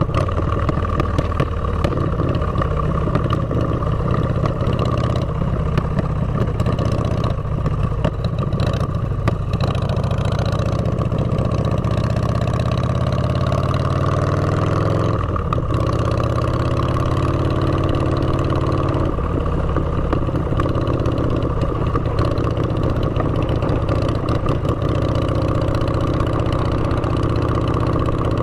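Motorcycle engine running through open drag pipes, a deep, loud exhaust note. About halfway through the engine note drops, then settles steady again.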